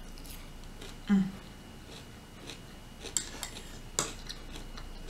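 Eating at a table: a few light, sharp clicks of cutlery against a dish around three to four seconds in, with a short hummed voice sound about a second in.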